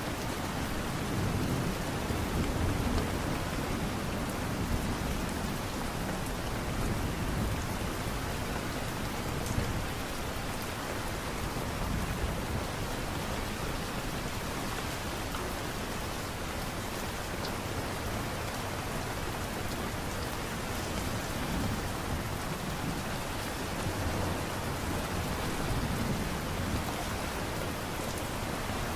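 Steady light rain falling, an even hiss of drops, with a low rumble swelling up now and then underneath.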